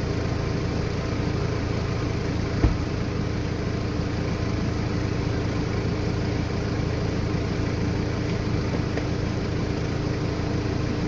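A vehicle engine running steadily at a low, even pitch, with one sharp knock a little over two and a half seconds in.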